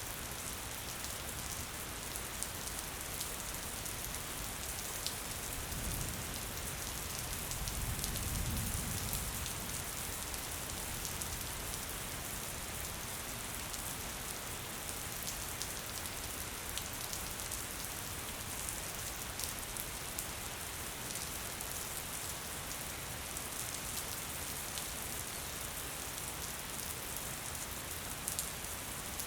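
Gentle steady rain: an even hiss with scattered fine drop ticks. About six seconds in, a low rumble swells for a few seconds and fades.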